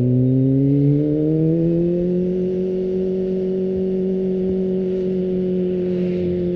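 Kawasaki ZX-25R's 250cc inline-four engine running through an Akrapovic exhaust. Its revs climb over the first couple of seconds, then hold steady.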